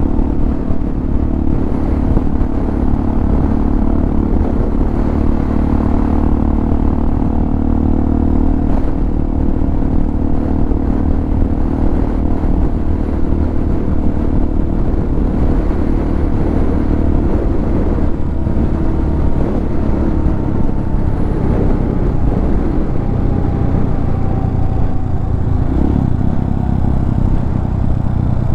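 Hawk 250 motorcycle's carbureted single-cylinder engine, fitted with a Motocults stage 4 kit, running steadily while riding, its pitch shifting about two-thirds of the way through.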